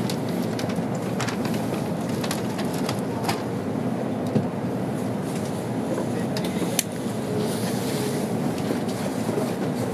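Cabin noise inside an N700-series Tokaido Shinkansen car rolling slowly into the station platform on arrival: a steady low rumble with a few sharp clicks, the loudest about four and a half and seven seconds in.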